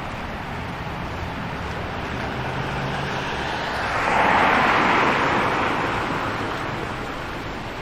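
A car passing by on the street: road and tyre noise swells, peaks about halfway through, then fades away, over a steady background of city traffic.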